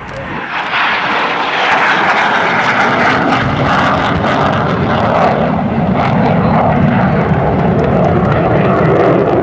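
F-100 Super Sabre's J57 turbojet on a low flyby. Its roar swells sharply about half a second in and stays loud, shifting from a higher hiss to a deeper rumble as the jet passes.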